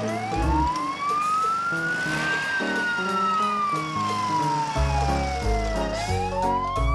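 Cartoon police car siren wailing, a single tone that slowly rises, falls and starts rising again, over background music.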